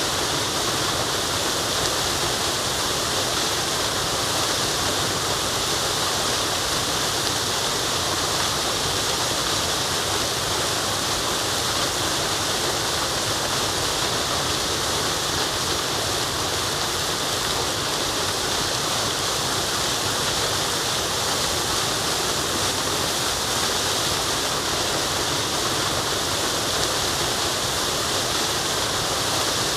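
Waterfall rushing steadily: a continuous, even hiss of falling water, brightest in its upper range, that does not change.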